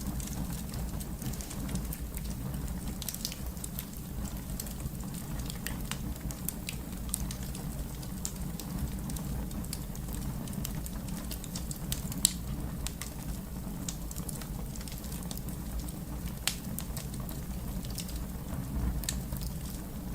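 Fire crackling: scattered sharp pops and snaps over a steady low rumble, with a louder pop about twelve seconds in and another a few seconds later.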